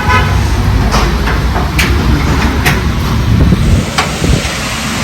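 Tractor diesel engine running with a steady low rumble and a few sharp clicks, plus a brief horn-like toot right at the start.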